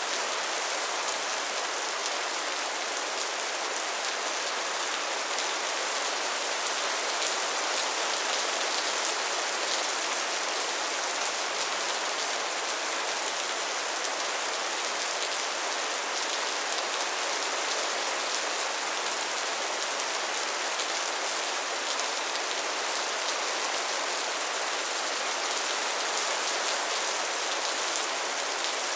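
Steady soft rain falling, an even hiss with many fine drop ticks and no change in level.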